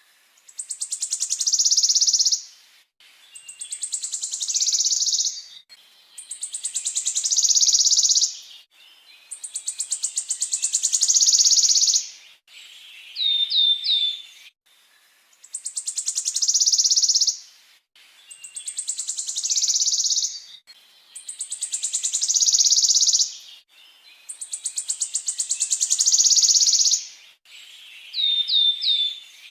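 Songbird masteran recording used to tutor caged birds: a rapid rolling trill, each about two seconds long and growing louder to the end, repeated about every three seconds. Twice the trill gives way to three quick whistled notes.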